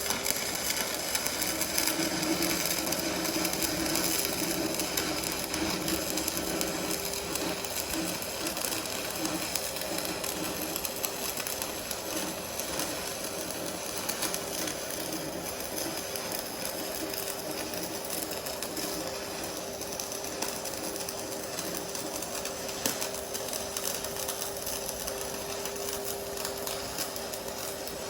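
Stick (MMA) arc welding with a 3.2 mm electrode: the arc crackles and sizzles steadily during the first, downhill pass on a pipe joint, with a steady low hum beneath it.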